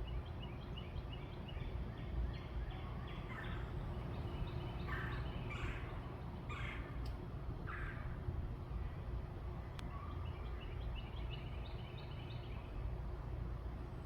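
Birds calling over a steady low rumble: quick runs of short high notes at the start and again near the end, with a few louder falling calls in the middle.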